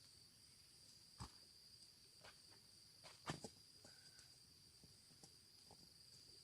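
Faint, steady, high-pitched insect buzz with a few scattered light clicks and taps; the loudest tap comes about halfway through.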